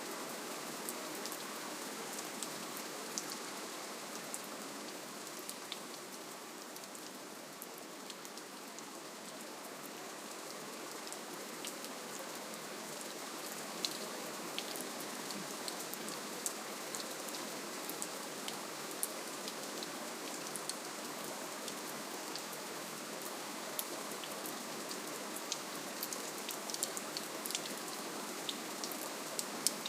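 Steady gentle rainfall, an even hiss with many individual drops ticking sharply on a surface.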